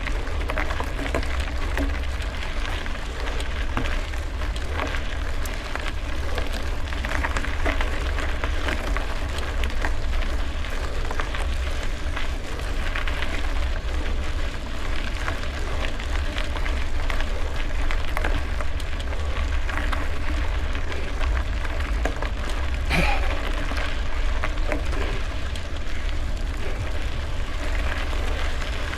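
Gravel bike riding: wind buffeting the microphone and tyres crackling over loose gravel, with a steady patter of small rattles and one sharper knock about 23 seconds in.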